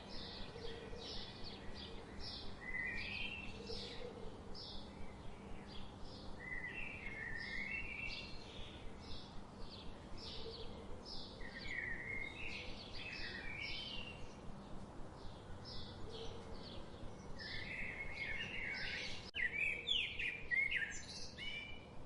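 Several songbirds chirping and singing, with short high chirps repeating about twice a second among warbling phrases. The calling grows busier and louder near the end.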